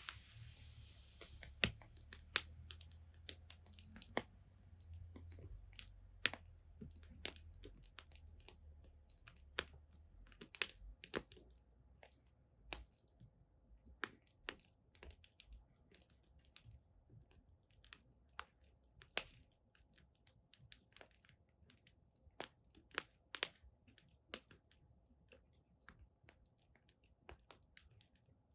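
Firewood crackling and popping in a bonfire: sharp, irregular pops, several a second at times, over a low rumble that fades after about ten seconds.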